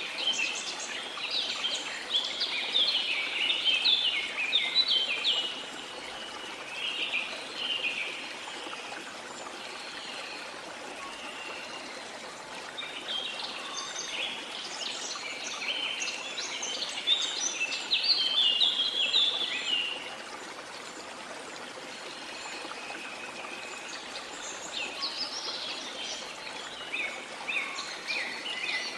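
Birds singing in rapid chirping phrases, in three spells of song with quieter pauses between, over a steady rush of flowing water.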